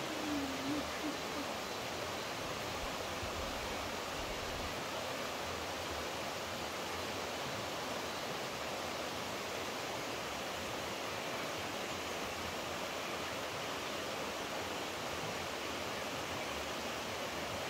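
Steady rushing of flowing water, an even hiss that does not change, with a short falling whistle fading out in the first second.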